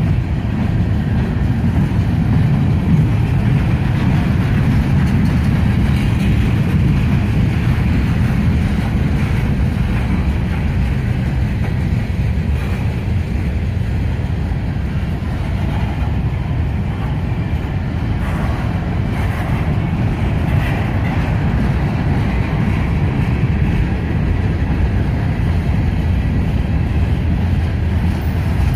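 Freight train cars of a mixed freight (tank cars, boxcars, covered hoppers) rolling past close by: a loud, steady rumble of steel wheels on the rails.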